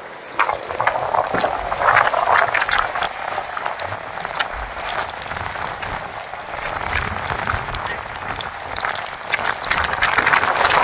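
Typhoon-force wind gusts driving heavy rain: a loud rushing hiss full of pattering and small knocks that swells about half a second in, eases slightly mid-way and builds again near the end, with wind rumbling on the microphone.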